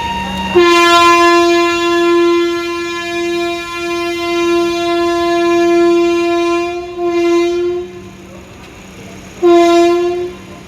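Vande Bharat Express trainset's horn sounded as the train departs: one long, steady blast of about seven seconds, then a short second blast about a second and a half later.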